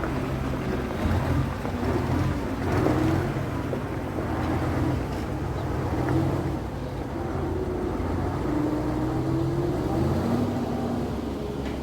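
Cement lorry's engine running steadily, its pitch wavering up and down as it works.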